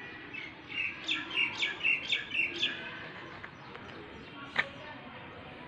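A bird calling: a quick run of about seven short, high chirps over a couple of seconds. About four and a half seconds in comes a single sharp click.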